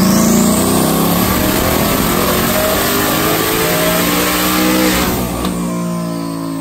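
Ford Mustang's 5.0 V8 making a full-throttle pull on a chassis dyno, the rear tire driving the roller. Revs climb with a rising whine in the first second, hold loud for about five seconds, then the throttle is lifted and it falls back to a lower running note near the end.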